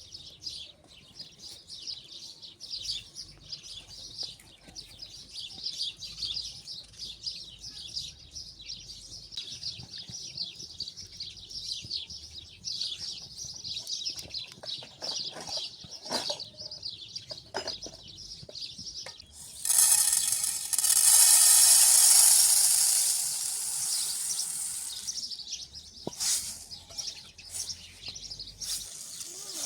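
Small birds chirping rapidly and continuously. About two-thirds of the way in, a loud hiss starts abruptly, lasts about five seconds and fades, drowning out the birds.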